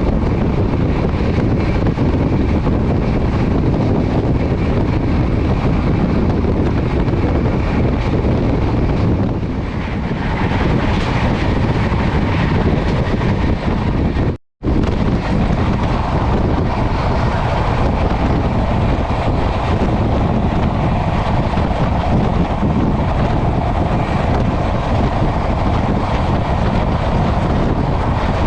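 Passenger train running at high speed, a steady heavy noise strongest in the low range. It drops out for an instant about halfway through.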